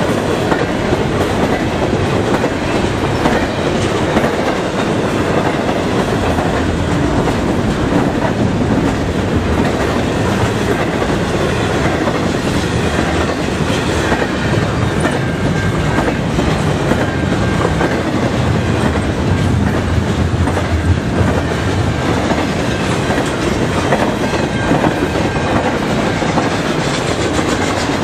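Double-stack container well cars of an intermodal freight train passing at speed, their steel wheels running loud and steady on the rails.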